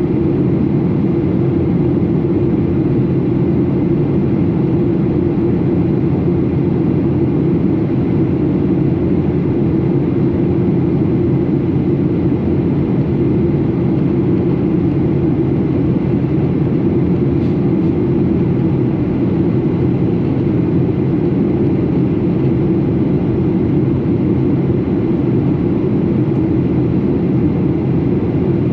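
Steady, loud drone of a Boeing 737 in flight, with engine and airflow noise heard inside the passenger cabin; it holds an even level throughout.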